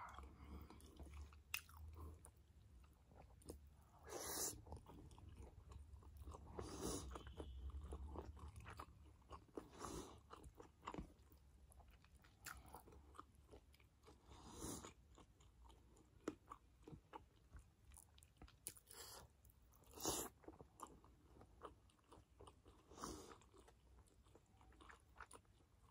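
Quiet chewing and mouth sounds of someone eating steamed chicken momos, with short sharp smacks or clicks every few seconds.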